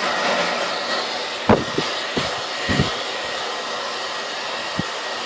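Hair dryer blowing steadily, with a few soft low bumps now and then.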